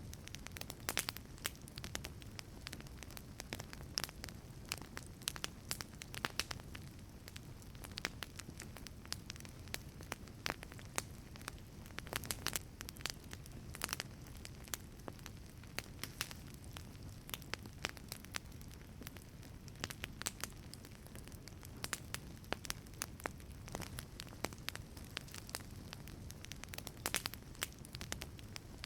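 Wood fire burning in a wood-fired pizza oven: frequent irregular sharp crackles and pops over a steady low rush of the flames.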